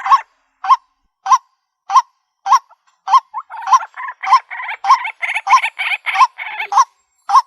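White-breasted waterhen calling: a loud croaking note repeated about every 0.6 s. From about 3.5 s to 7 s in, denser harsh calling fills the gaps between the notes.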